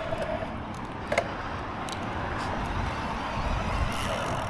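Mountain bike rolling over wet rock and roots: a steady rumble of tyre and wind noise, with a sharp click about a second in and a few fainter ticks.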